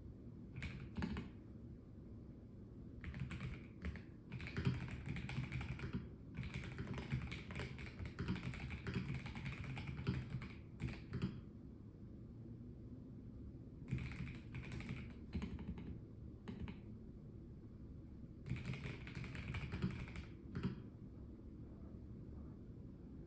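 Typing on a Melgeek Mojo84 Plastic mechanical keyboard, in runs of rapid key clicks broken by pauses of a second or two.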